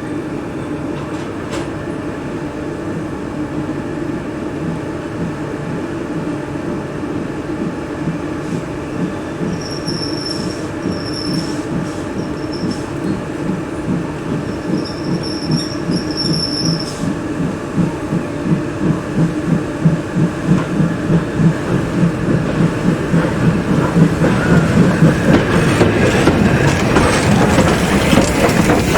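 Steam-hauled train running on a heritage line, with a rhythmic beat that grows steadily louder through the second half as it comes closer. A few short, high-pitched squeals sound midway.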